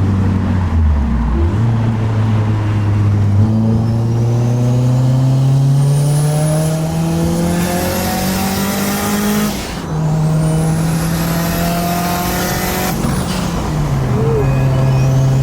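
Mitsubishi Lancer Evolution IV's turbocharged inline-four accelerating: the engine note climbs steadily for several seconds, drops sharply at a gear change about ten seconds in, holds, then steps down again near the end. A faint high whine rises along with the revs.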